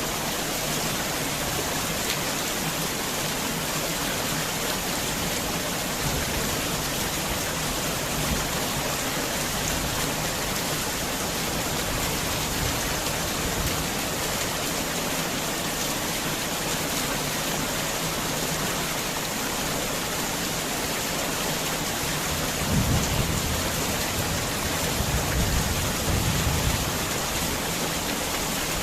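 Heavy rain falling steadily, with two low rumbles of thunder near the end.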